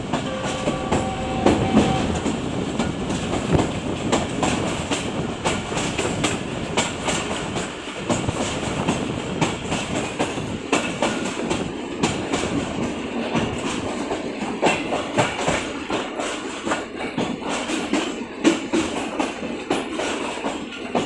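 Moving train running along the track, with its wheels clicking over the rail joints.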